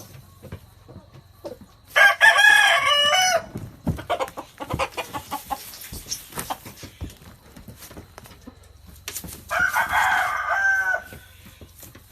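Gamefowl rooster crowing twice: one crow about two seconds in and another near the end, each lasting about a second and a half. Softer clucking comes between the crows.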